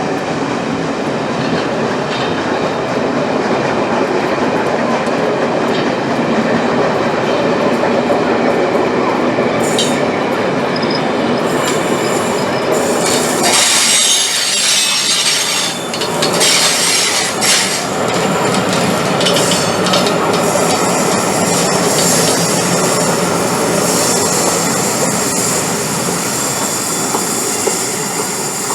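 Steam-hauled train's coaches rolling along the rails, a steady rumble and clatter of wheels. About halfway through, a high-pitched wheel squeal joins in and carries on.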